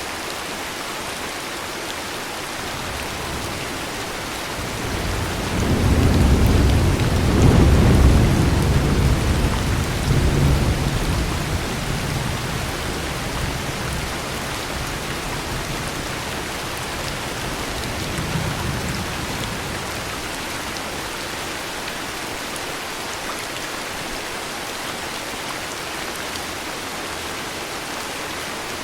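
Steady heavy rain with a long, deep rumble of thunder that builds about five seconds in, peaks around eight seconds and slowly dies away, followed by a fainter second rumble a few seconds later.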